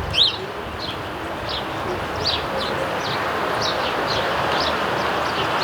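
Sparrows chirping: a string of short, high chirps over a steady background hiss.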